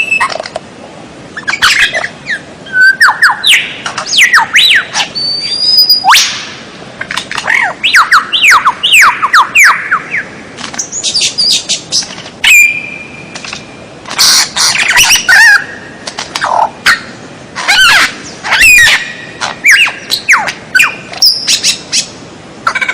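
Recorded songbird song: a rapid, varied string of chirps, sharp sweeping whistles and trills in loud bursts with short gaps.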